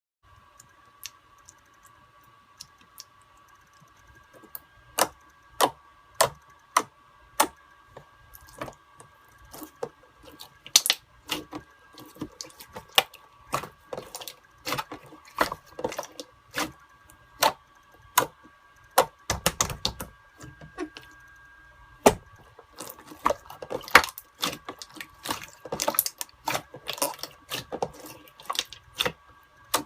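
A series of sharp clicks and taps, sparse at first, coming about one or two a second after a few seconds, then quicker and more irregular from about ten seconds in, over a faint steady hum.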